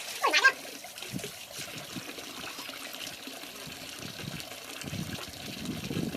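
Water trickling and running steadily. About half a second in comes one short, loud, high sound that falls in pitch.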